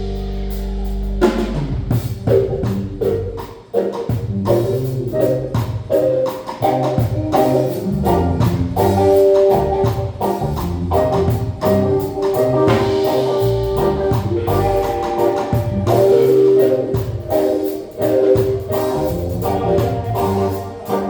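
Live band music with drums and pitched notes. It opens on a held chord that breaks into a busy rhythmic groove about a second in.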